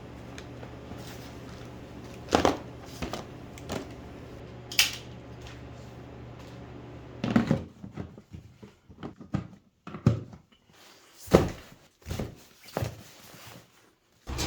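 Scattered knocks and thunks of things being handled and set down in a small enclosed space, over a steady low hum that stops about halfway through.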